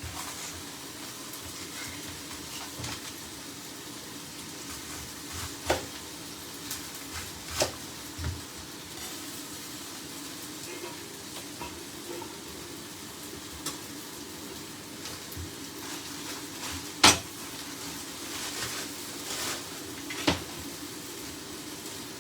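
Chicken sizzling steadily as it fries in a pan, with several sharp clicks and knocks of kitchen utensils and pans, the loudest about seventeen seconds in.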